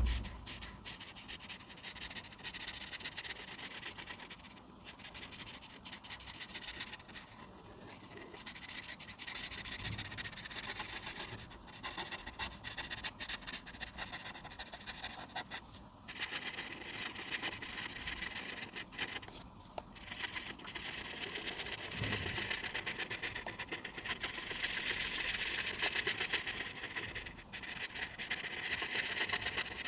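Coloring on paper: a coloring tool scratching in long runs of quick back-and-forth strokes, broken by brief pauses every few seconds, with a soft thump at the very start.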